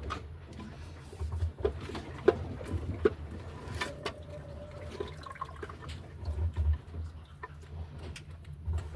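Water sloshing and lapping against an aluminum sailboat's hull, heard from inside the cabin as a pulsing low rumble, with scattered knocks and clicks.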